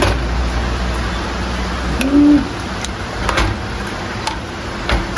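Scattered light clicks and clinks of kitchen utensils against a pot of simmering food, over a low steady hum. A short, low hum-like tone comes about two seconds in.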